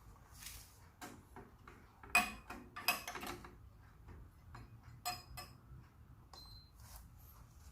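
Metal espresso gear being handled: a tamped portafilter knocked and clicked into place, making a series of clinks and knocks, the loudest about two seconds in. A short high metallic ring follows later.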